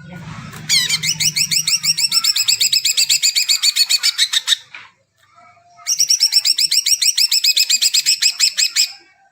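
Cucak ijo (green leafbird) singing: two long runs of fast, repeated rising chirps, about ten notes a second, with a pause of about a second between them.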